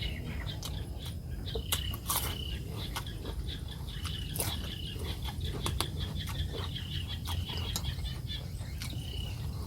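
Close eating sounds: chewing and small spoon-and-plate clicks scattered through, over a steady low background rumble and short high-pitched chirping repeated every second or so.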